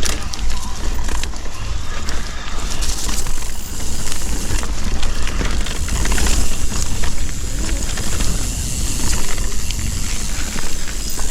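Electric mountain bike rolling fast over a dirt singletrack, with a steady rumble of tyres and wind on the microphone and many small rattling clicks from the bike over roots and rocks.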